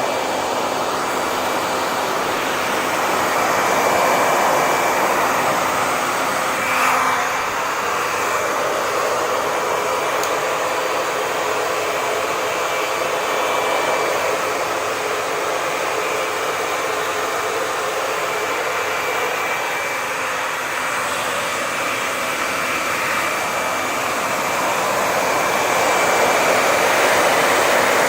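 Hair dryer running steadily: a continuous rushing whoosh of blown air with a faint motor whine, swelling slightly now and then, with a brief louder blip about seven seconds in.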